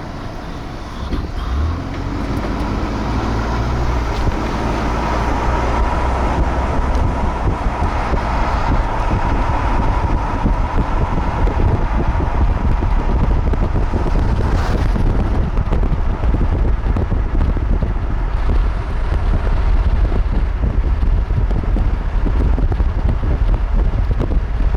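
A car driving, with steady road rumble and wind noise that build up over the first few seconds and then hold.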